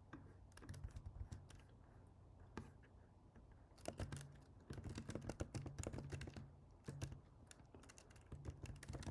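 Typing on a computer keyboard. A few scattered keystrokes come first, then fast runs of typing from about four seconds in and again near the end.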